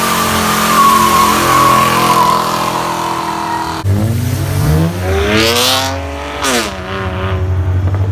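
A car doing a burnout: its engine is held at high revs while the tyres squeal, then cuts off sharply about four seconds in. The engine is then revved up and let fall twice before settling into a steady, rumbling idle.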